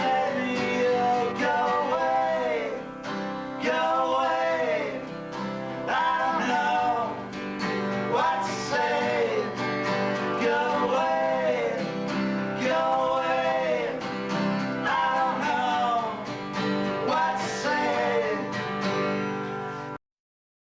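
A song sung to strummed acoustic guitar, picked up on a camcorder's built-in microphone; the recording cuts off abruptly near the end.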